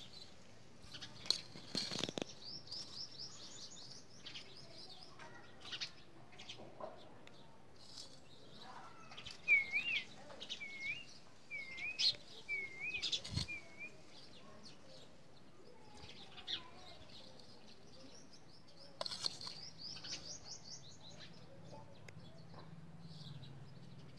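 Wild birds calling: a fast chirping trill about two seconds in and again near the end, and a run of five short whistled notes midway. A few light clicks come in between.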